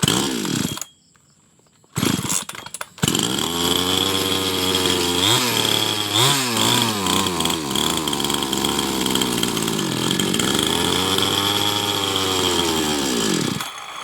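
Small petrol engine fitted with a cheap new aftermarket carburetor: after two short bursts it catches about three seconds in and runs for about ten seconds, its speed dipping and recovering unevenly, with a steady high whine over it, then cuts off just before the end. It runs rough ("ngabrebeb"), which the owner puts down to the cheap local carburetor.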